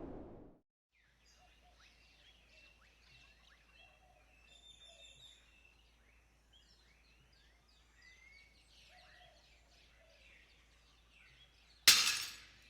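Faint outdoor ambience of many small bird chirps and calls, after a loud rushing noise fades out in the first half second. Near the end a sudden loud burst of noise dies away in under a second.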